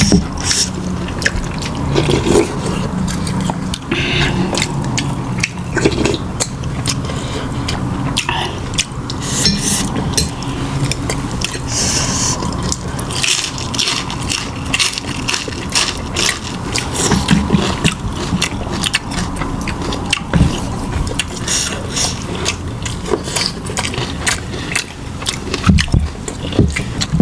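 Close-up eating sounds: chewing and biting of fried noodles and other food, with many small irregular clicks and scrapes of utensils, over a steady low hum.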